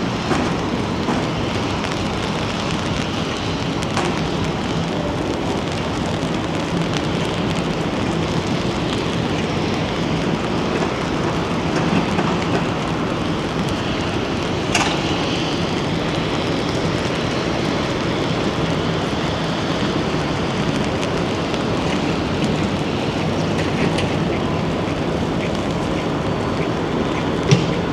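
Steady rain and wind, heard as a continuous even hiss, with a few sharp taps or clicks, one of them about halfway through.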